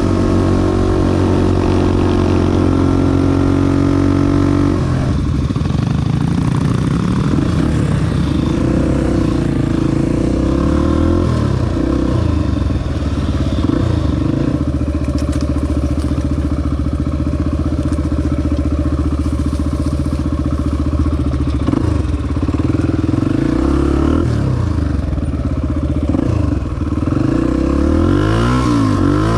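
Honda XR250 dirt bike's single-cylinder four-stroke engine running under way, holding steady revs for several seconds at a time and rising and falling with throttle and gear changes, including a quick run of revs up and down near the end.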